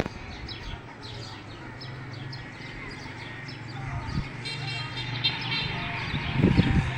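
Small birds chirping rapidly and repeatedly. A low steady hum runs beneath and grows louder in the second half.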